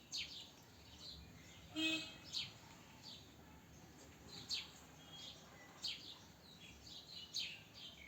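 Small birds chirping in the background: short, high, downward-sliding chirps repeating every second or so, with one louder, brief squeaky call about two seconds in.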